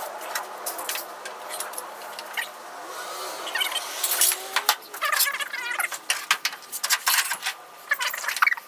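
Sheet metal clattering, clinking and scraping in irregular bursts as a car's roof structure is set back in place on the body, with a few short metallic squeaks.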